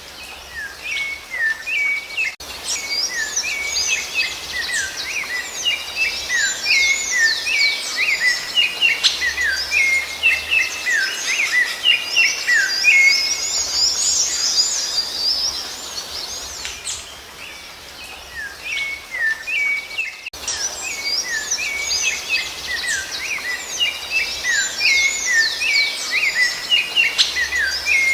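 Rufous-bellied thrush (sabiá-laranjeira) birdsong: a busy, continuous stream of quick whistled notes and chirps. It eases off for a few seconds past the middle, then picks up again.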